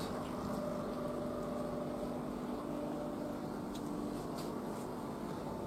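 Houseboat motor running steadily at low speed, heard from on board as an even hum over a wash of noise.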